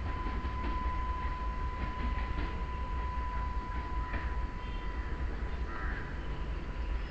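Distant electric train running away down the line: a steady high whine over a low rumble, the whine fading slightly near the end.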